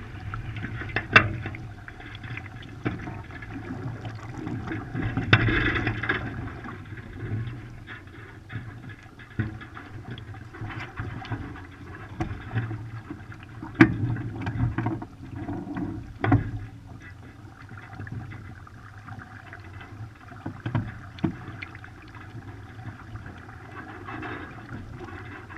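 Water rushing and splashing against the hulls of a Hobie Cat 14 catamaran under sail, surging unevenly, with a few sharp knocks, the loudest about a second in and two more near the middle.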